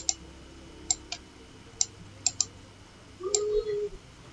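Computer mouse clicking: several sharp single clicks and quick pairs, spaced irregularly, as text is selected in a word processor. A short low hum lasts under a second, about three seconds in.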